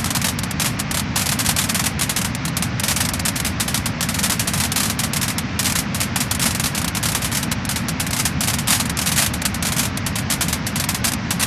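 Wood-burning fire crackling and popping, a dense, steady run of small snaps over a constant hiss.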